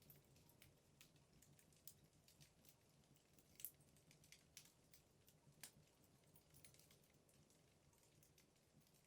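Wood fire crackling in a fireplace: faint, irregular small pops and snaps from the burning logs, with a couple of sharper pops in the middle.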